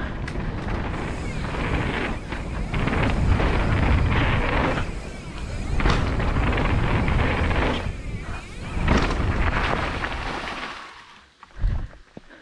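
Heavy wind buffeting on the microphone with low rumble and rattle from a mountain bike being ridden fast on a trail. The noise surges and eases, then falls away about 11 seconds in, and a single sharp thump follows near the end.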